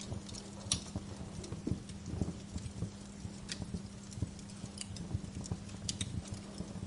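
Bonfire crackling: burning logs give off irregular sharp pops and snaps, a few louder than the rest, over a steady low rumble of the flames.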